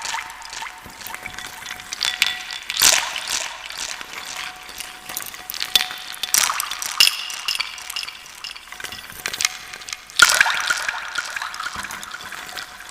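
Wood soup being stirred: a loose mix of wooden pieces scraped and clattered around a container, a steady rustling clatter with echo added. Louder sweeps come about three seconds in, around six and a half seconds and about ten seconds in.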